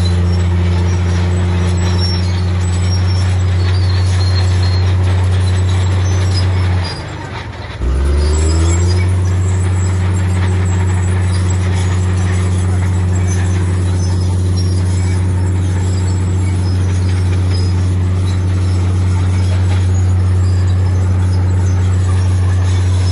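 Heavy diesel engine of earthmoving machinery running with a steady low drone. About seven seconds in, the drone drops away for about a second, then comes back with a short rising note as it picks up again.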